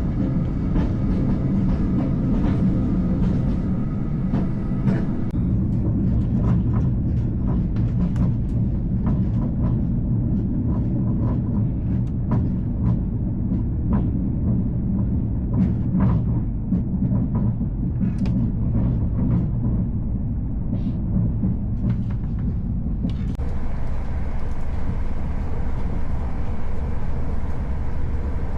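Passenger train running: a steady rumble with scattered clicks and knocks from the wheels on the track. A set of steady tones, like a motor whine, fades out about five seconds in, and the sound turns brighter and hissier about 23 seconds in.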